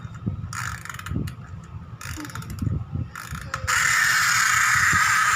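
Battery-powered toy train running: short bursts of mechanical clicking and rattling, then about three and a half seconds in a loud, steady rattling whir that carries on.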